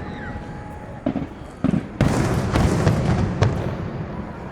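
Aerial fireworks exploding: a few separate booms in the first two seconds, then from about two seconds in a loud, dense run of bursts and booms.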